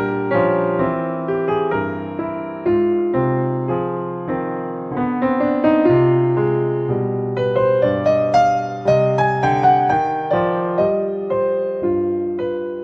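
Background piano music: a slow melody over sustained chords, each note struck and fading.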